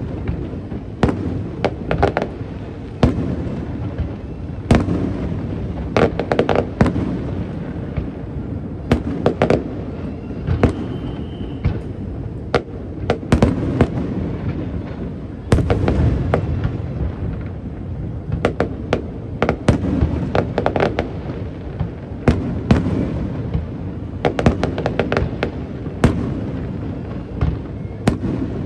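Aerial fireworks shells bursting in rapid, irregular succession: many sharp bangs, some in quick clusters, over a continuous low rumble of booms.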